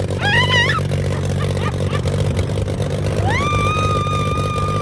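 A vehicle engine runs steadily. Over it a person's voice calls out twice: a short wavering call near the start, then a long held call from about three seconds in.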